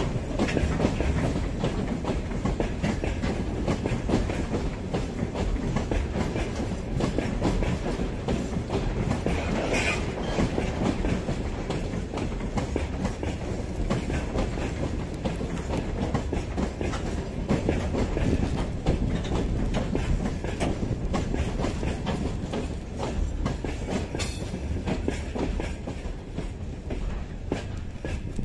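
A train running on the rails, its wheels clacking steadily over the rail joints.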